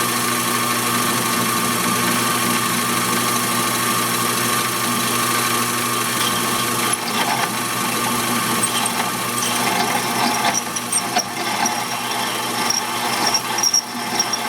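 EMCO Compact 5 mini lathe running with a steady motor whine while turning down a bolt head. From about seven seconds in the cut turns rough and uneven, with ticking and an on-and-off high squeal as the tool chatters on work that is jumping around.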